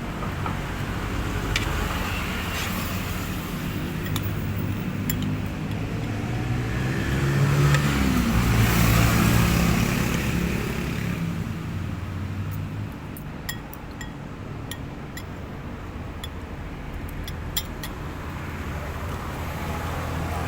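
Road traffic: a motor vehicle's engine hum swells as it passes about eight seconds in, its pitch falling, then fades back to a steady low rumble. A series of small sharp clicks follows in the second half.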